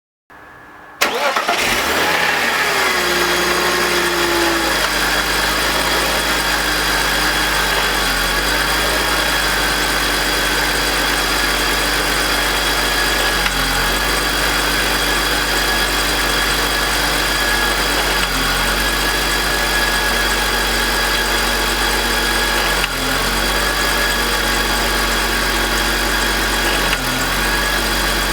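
BMW M52TU 2.5-litre inline-six starting about a second in, then idling steadily with brief dips in the running near 13, 18, 23 and 27 seconds. It carries a grinding noise, strongest at startup, that the owner suspects comes from the VANOS, with the revs dropping while it is heard.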